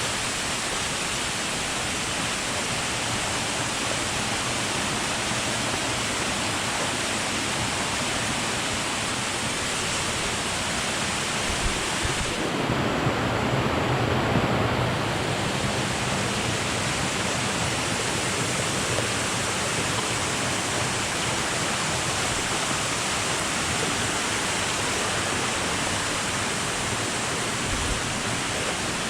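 Waterfall's rushing water, a steady loud noise, with a brief muffled low rumble about halfway through.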